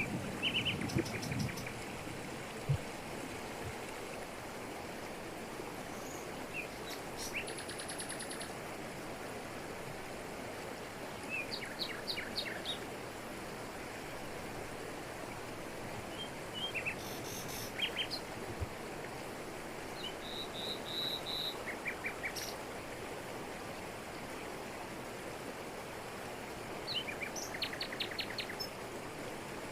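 Steady rush of a waterfall pouring over rocks, with birds calling over it in short rapid chirping trills every few seconds.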